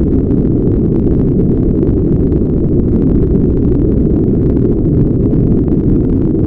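Steady, loud brown noise: an even, deep rumbling hiss with nearly all its energy low down and almost nothing above the lower midrange.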